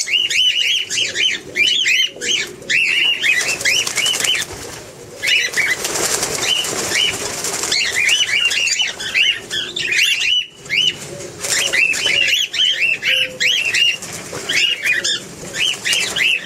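Many small birds calling in rapid, repeated chirps, with bursts of wing flapping, as they are being caught for a move.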